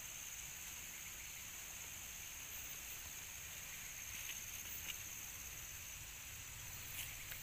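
Outdoor garden ambience: a steady high-pitched hiss over a low rumble, with a few faint clicks about four to five seconds in and again near the end.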